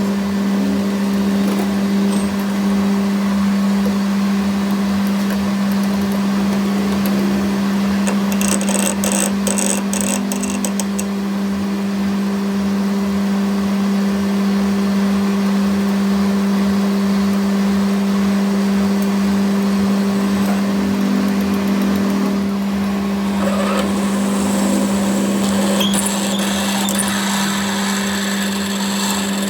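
A power tool or workshop machine running steadily with a constant hum, with a short burst of sharp high clicking or scraping partway through.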